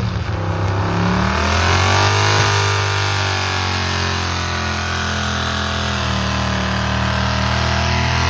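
Pulling truck's engine revving up over the first couple of seconds, then holding at high revs with a slight sag and a climb again near the end, as during a pull down the track.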